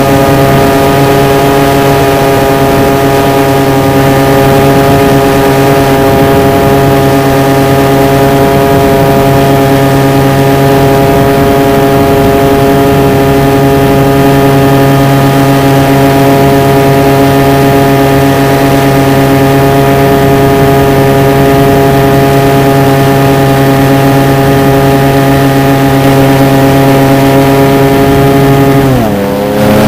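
RC model airplane engine running steadily at a constant high throttle, picked up close by the onboard camera; about a second before the end its pitch drops sharply as the throttle is pulled back.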